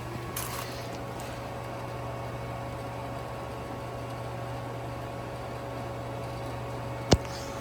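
1978 American Standard Glenco toilet tank refilling: a steady hiss over a low hum with a faint thin whistle. A sharp click comes about seven seconds in.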